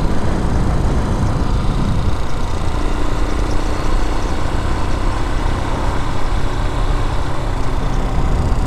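Vitacci Raven 250 dirt bike's air-cooled 250cc engine running steadily under way, heavy in the low end with road and wind rumble. A faint steady tone joins about three seconds in.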